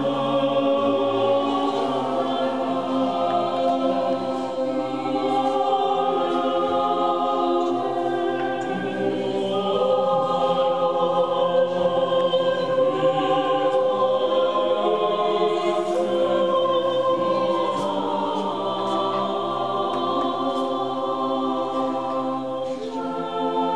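A choir singing slow sacred music in long held chords that shift every second or two.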